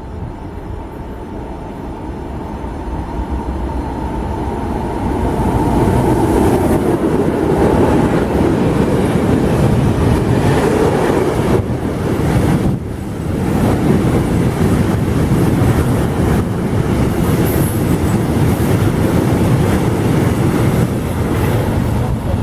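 A train approaching along the track, growing louder over the first six seconds, then running past at close range with steady rail and wheel noise.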